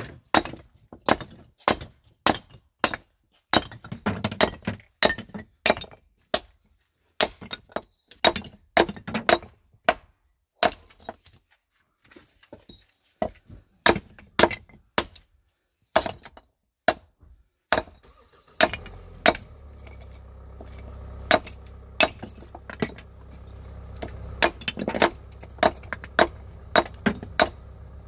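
Small hatchet chopping firewood into kindling: a long run of sharp wooden chops and splits, about one or two a second. About two-thirds of the way through, a steady low hum starts underneath.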